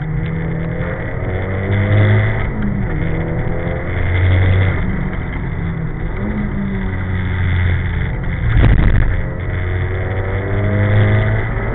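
Nissan Silvia S14's engine, heard from inside the cabin, pulling hard on track: its pitch climbs and drops back several times as the driver accelerates and shifts or lifts. A loud thump about three-quarters of the way through.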